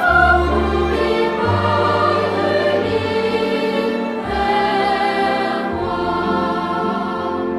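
Choral music: a choir singing sustained lines over a low accompaniment.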